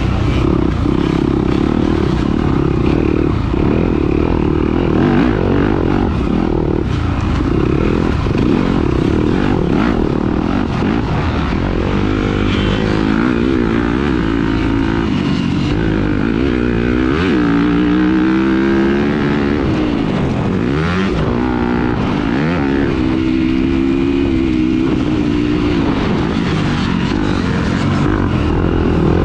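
Motocross dirt bike engine racing, its pitch repeatedly climbing and dropping as the throttle opens and shuts and the rider shifts through the gears.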